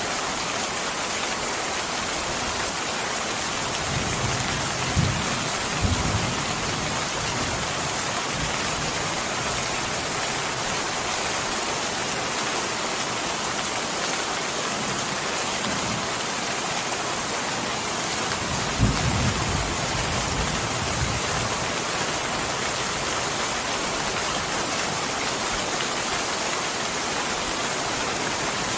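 Steady heavy rain, an even hiss. A few short low thumps stand out about four to six seconds in and again near the twenty-second mark.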